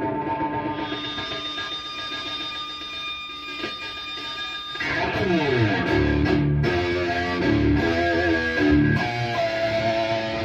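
Distorted electric guitar through a Bogner Uberschall preamp, a chord held and ringing with feedback for about five seconds. Then a downward slide leads into heavy low palm-muted chugs, and near the end another chord is held.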